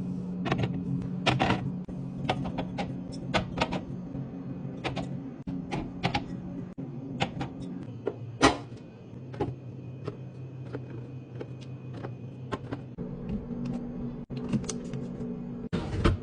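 A run of irregular sharp clicks and knocks, like small hard objects being handled and set down, over a steady low hum; the loudest knock comes a little past the middle.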